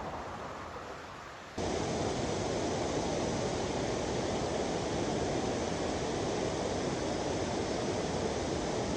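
Steady rush of falling water. About a second and a half in it cuts abruptly to a louder, fuller rush.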